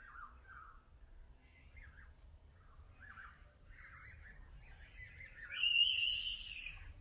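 Common swifts calling: a run of short calls, then a louder, drawn-out high-pitched scream about five and a half seconds in that lasts about a second.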